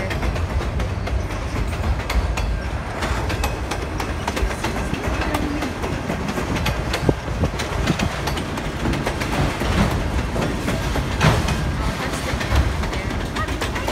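Freight train of autorack cars rolling steadily past close by: a continuous loud rumble with the wheels clicking and clacking over the rail joints.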